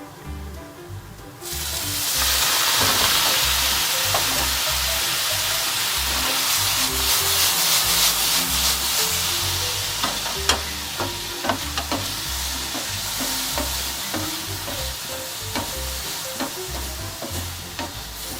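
Sweet potato sticks sizzling in hot sesame oil in a frying pan as they are stir-fried. The sizzle starts suddenly about a second and a half in, loud, then eases a little, and from about halfway there are light clicks and taps of the utensil stirring in the pan.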